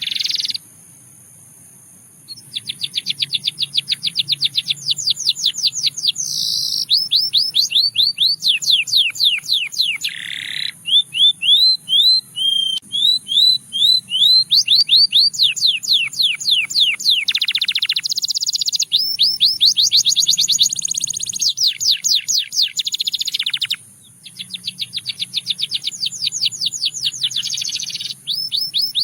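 Domestic canary singing a long song of fast trills, rapidly repeated notes and quick pitch sweeps. It pauses for about two seconds near the start and briefly again about three-quarters of the way through.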